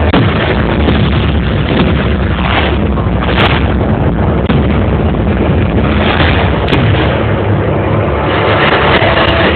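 Fireworks display finale: a dense barrage of bursts that runs together into a continuous loud rumble, with a few sharper cracks standing out.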